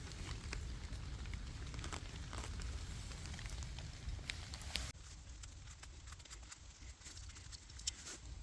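Raindrops pattering and dripping in a wet forest, many small scattered taps over a low rumble; the rumble drops away abruptly about five seconds in.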